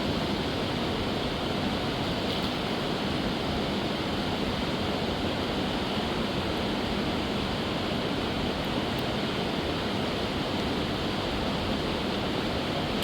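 Fast mountain river rushing over large rocks: a steady, dense rush of water with no change.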